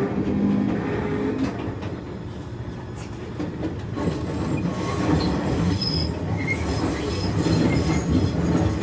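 Enoshima Electric Railway (Enoden) train running, heard from on board: a steady rumble of wheels on rail, with short high wheel squeals from about halfway through.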